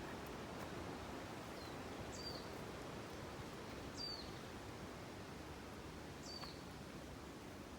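A bird giving three short, high chirps about two seconds apart, over a faint, steady hiss of outdoor background noise.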